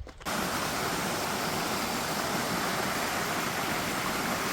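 Steady rush of flowing water from a stream, starting abruptly just after the start.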